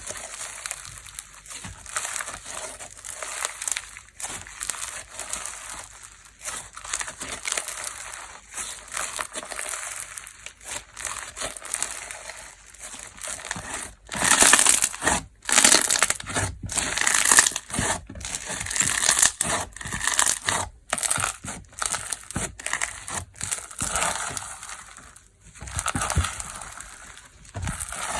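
Fu-gashi-textured slime being squeezed and kneaded by hand, giving a dense run of crackles, pops and crunching. The crackling grows louder and sharper about halfway through.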